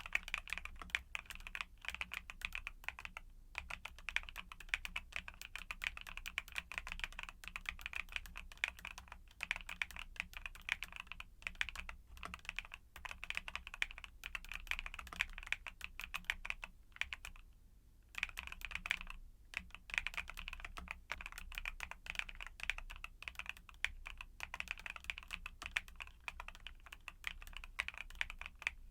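Mechanical keyboard with YUNZII Cocoa Cream switches being typed on steadily: a quick, continuous run of key clicks, with a brief pause about two-thirds in.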